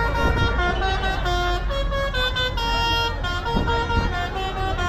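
A low, steady rumble of tractor engines, with a tune of short held notes sounding over it.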